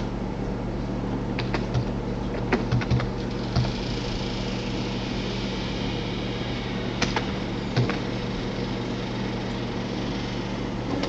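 Steady hum of a fan, with a scattering of sharp clicks from a computer keyboard and mouse as a search name is entered: a few in the first half and two more near the eight-second mark.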